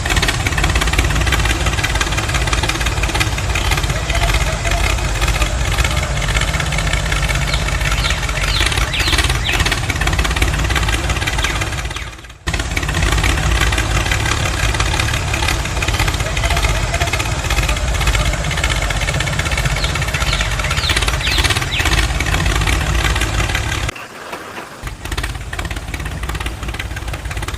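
An engine running steadily with a low rumble. It breaks off abruptly for a moment about twelve seconds in, and the level drops about two-thirds of the way through.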